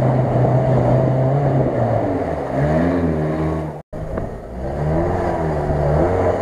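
Off-road 4x4 engines working through slush and water: a steady note, then the revs swinging up and down under load. The sound cuts out abruptly for a moment about four seconds in, then another engine revs up and down the same way.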